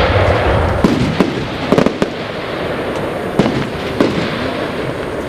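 Aerial fireworks display: the crackling tail of a loud shell burst fades, then a string of sharp single bangs goes off at uneven intervals about a second apart.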